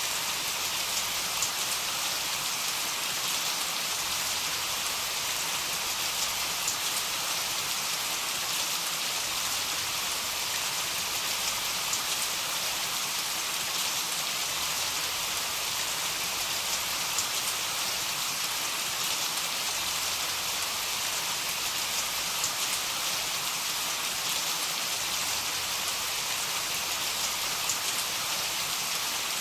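Steady heavy rain: an even hiss with the patter of individual drops hitting a surface, and no thunder.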